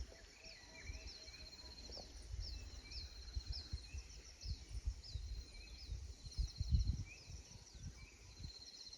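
Birds singing in the countryside: repeated short high chirps and a fast trill, over and over. Irregular low rumbles on the microphone, strongest a little past the middle.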